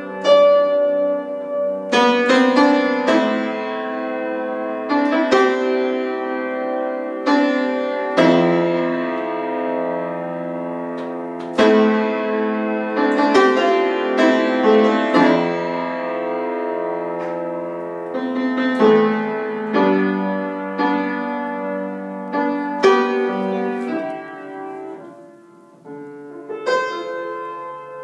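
Solo piano improvisation: chords and single notes struck one after another and left to ring, at a slow pace, easing to a quieter passage near the end before picking up again.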